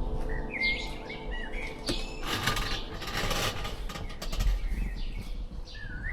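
Small birds chirping in short, pitch-gliding calls, a cluster about half a second in and another near the end, over scattered rustling and clicks.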